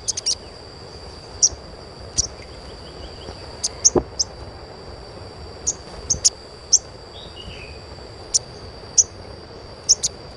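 Little spiderhunter (sogok ontong) giving short, sharp, high chirps at irregular intervals, about a dozen in all, over a steady high-pitched insect-like drone. A single low thump about four seconds in.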